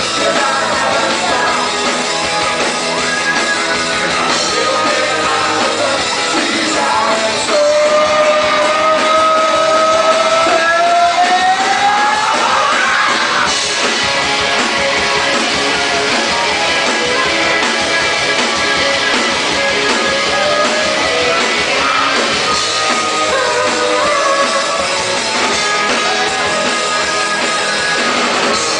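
Rock band playing live, with singing over electric guitar and drums. About eight seconds in, a long held note slides slowly upward in pitch.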